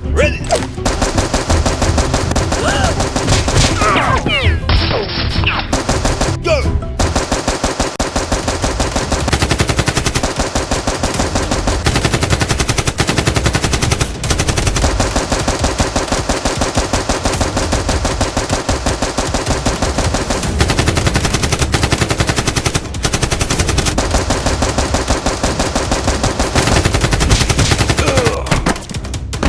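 Rapid automatic gunfire, the gunshot sound effects of a staged gunfight, fired in long continuous strings with a few brief pauses.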